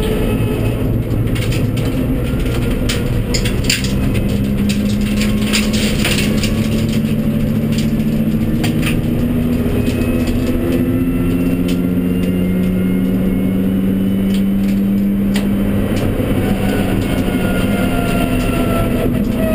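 Honda Civic Type R EP3 race car's four-cylinder engine running hard, heard from inside the stripped cabin, its note slowly climbing and dropping back a few times as it is driven up the course over heavy road and tyre noise. A run of sharp clicks and rattles comes between about three and seven seconds in.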